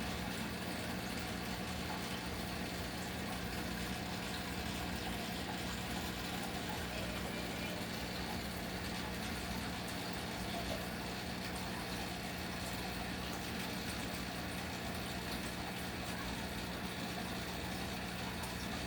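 A steady low mechanical hum over a faint even hiss, unchanging throughout.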